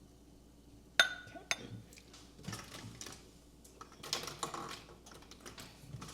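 Clinking and clattering of a cup holding nugget ice and a utensil while iced matcha is made: a sharp ringing clink about a second in, a second clink half a second later, then more scattered clattering.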